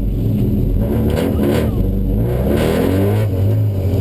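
Honda del Sol's engine revving up from inside the cabin, its pitch climbing for a second or two before settling, with a couple of short clicks about a second in.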